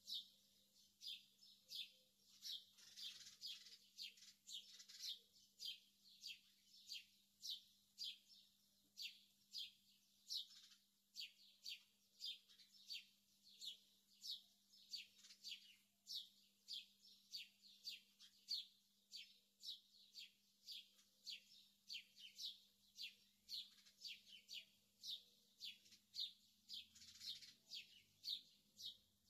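A bird chirping over and over at an even pace, about two to three short high chirps a second, with a faint steady hum underneath.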